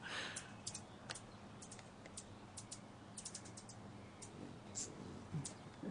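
Hummingbirds giving faint, short, high-pitched chip calls, scattered irregularly and sometimes in quick clusters, as they chase each other around a feeder.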